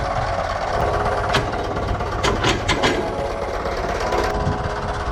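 An engine running steadily, with a few sharp clicks between about one and three seconds in.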